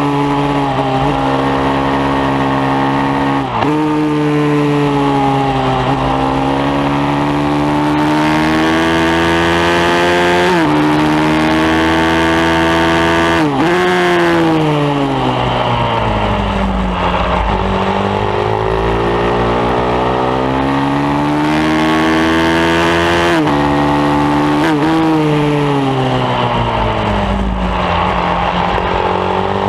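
Pit bike engine at racing pace, its pitch climbing under acceleration, stepping through gear changes and falling away off the throttle for corners, again and again.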